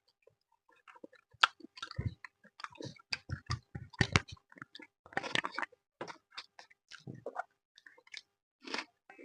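Close-up chewing and mouth sounds of someone eating fish with rice: wet smacks and soft crunches at an irregular pace, busiest in the first half and sparser later.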